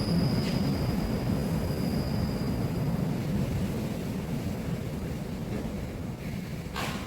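Water rushing in a stream, a steady, deep, noisy rush. A thin, high, steady tone fades out about halfway through, and a short sharp sound comes near the end.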